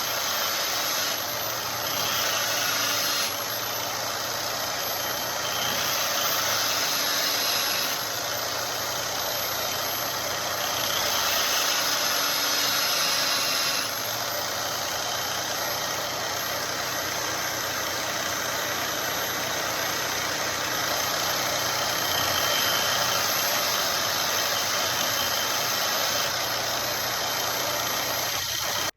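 Belt grinder running with a very fine grit abrasive belt finishing a knife blade: a steady hiss with a thin high whine over it, swelling in stretches. The sound cuts off abruptly near the end.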